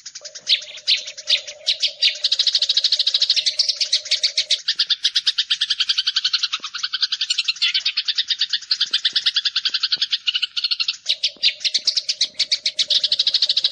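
Recorded sparrow chirping played as a bird-trapping lure: a fast, unbroken run of chirps, several a second. A steady low drone runs under it for the first few seconds and comes back near the end.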